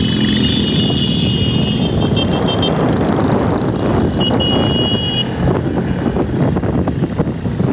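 Motorcycle engines running with road and wind noise. A high steady tone sounds over them, stops a little under three seconds in, and comes back for about a second between four and five seconds in.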